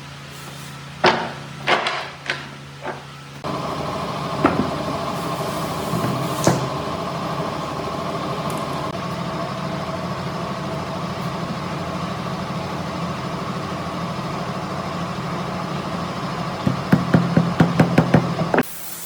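A few separate knocks, then a machine starts and runs steadily with a constant hum; a couple of knocks sound over it, and near the end comes a quick run of about seven taps before the machine sound stops suddenly.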